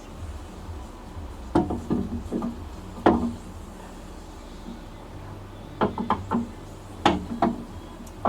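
Tools or workpiece parts being handled and set down at a workbench: short knocks and clanks in quick clusters of two to four, over a low steady hum.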